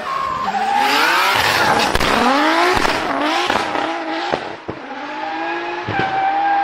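Performance car engine revving hard, its pitch climbing and dropping in quick runs, with about five sharp exhaust pops and bangs in the later half.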